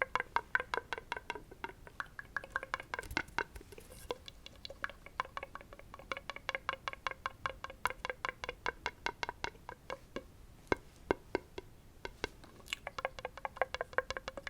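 Rapid, light ASMR tapping on a hard object that rings with a short pitched tone at each tap, about eight to ten taps a second, thinning out briefly a couple of times before speeding up again.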